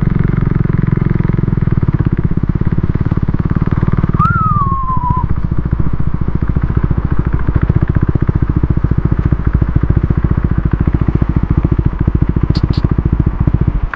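KTM Duke 390's single-cylinder engine running at low, steady revs as the bike is ridden slowly over rough off-road ground, its firing pulses even throughout. About four seconds in, a short high squeak falls in pitch, and the engine note eases slightly just after.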